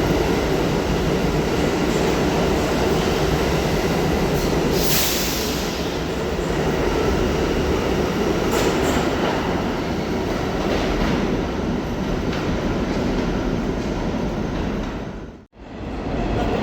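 New York City subway train running through the station with a steady rumble of wheels on rails. There is a brief hiss about five seconds in, and the sound cuts out for a moment near the end.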